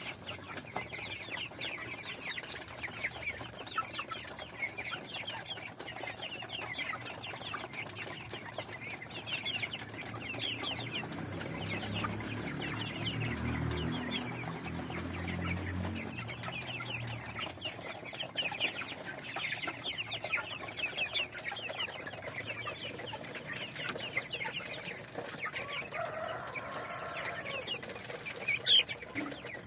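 Chickens clucking and calling, many short high calls overlapping throughout. A lower pitched sound joins for a few seconds around the middle, and there is one brief sharp sound near the end.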